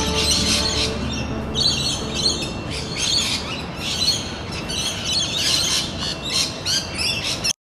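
Birds chirping, a rapid string of short high chirps that cuts off suddenly near the end.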